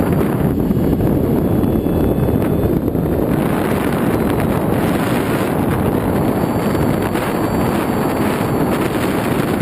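Steady wind rushing over the microphone of a camera mounted on an FX-61 model flying wing in flight, the noise growing brighter and hissier about three seconds in.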